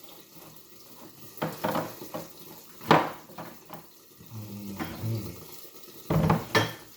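Washing up at a kitchen sink: water running from the tap while dishes and pans clatter against each other. The sharpest knocks come about one and a half seconds in, about three seconds in (the loudest), and a double knock near the end.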